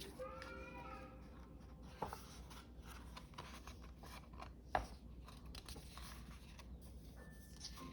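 Quiet household handling sounds: light rustling and scraping with two sharp clicks, about two seconds and about five seconds in, and a brief wavering tone near the start.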